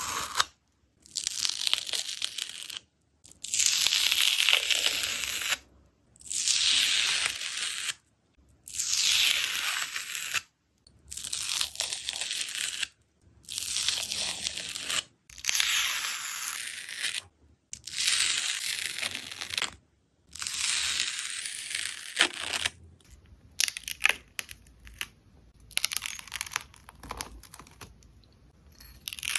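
A dried skin on slime being torn off in long hissing rips, about nine in a row, each lasting around two seconds with short pauses between. From about two-thirds of the way in, the rips give way to softer, irregular crackling.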